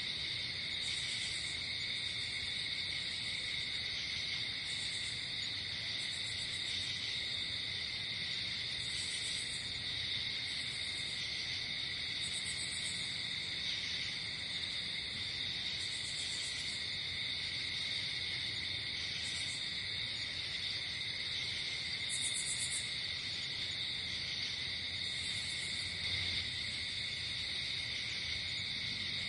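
Night insect chorus: crickets chirping steadily and shrilly, with short, very high buzzing trills breaking in every second or two.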